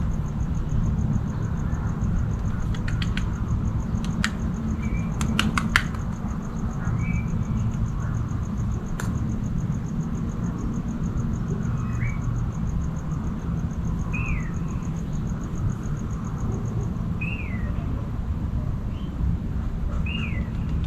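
Birds calling: short downward-slurred notes every two to three seconds, with a fast, high, even trill running until near the end. Several sharp clicks come in the first half, all over a steady low rumble.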